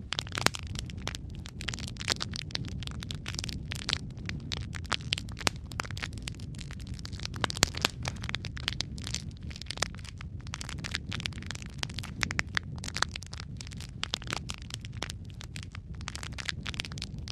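Wood fire of burning logs in a fireplace crackling: many irregular sharp pops and snaps over a steady low rumble of the flames.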